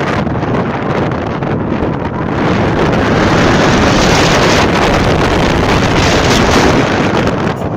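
Strong wind blowing across the microphone, a loud, steady rush of noise that grows a little louder about three seconds in.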